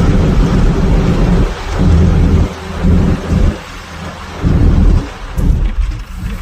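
Loud low rumble of a moving bus, with gusts of wind buffeting the microphone so that the sound surges and drops off irregularly.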